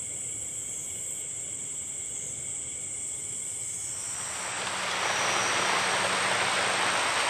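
Insects trilling in steady high tones, then about four seconds in a rain shower begins, its hiss on the leaves swelling over about a second and staying loud.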